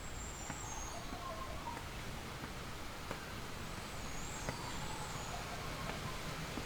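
Faint calls of birds over steady outdoor background noise, with high twittering near the start and again about four seconds in, and a few faint clicks.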